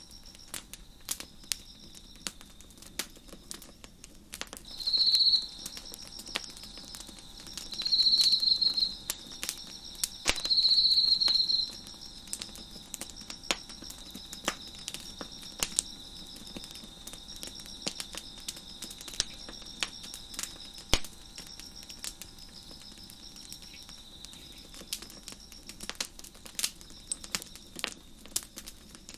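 Wood fire crackling with frequent sharp pops, over a steady high chorus of crickets chirping. A nearer cricket trills louder three times in the first half.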